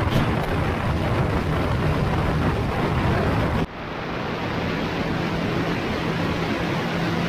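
TVS Apache RR310's single-cylinder engine running at speed, buried under heavy wind rushing over the microphone. About three and a half seconds in, the sound drops off abruptly, then builds back up.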